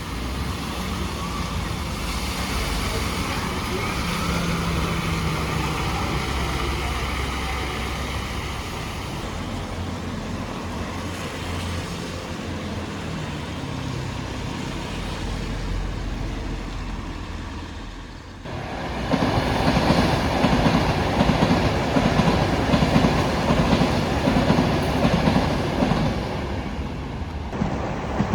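Passenger train on the line out of Euston, first as a steadier, quieter rumble, then passing close and loud from about eighteen seconds in with its wheels rattling over the rails.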